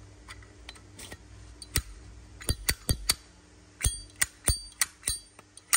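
Sharp metallic clicks of a solid brass Zippo lighter being handled. They are scattered at first, then come about three a second from around the middle, some with a brief metallic ring.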